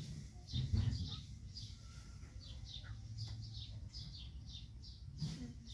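Small birds chirping over and over in short, high chirps that fall in pitch, several a second. A low rumble runs underneath, with a dull thump a little under a second in.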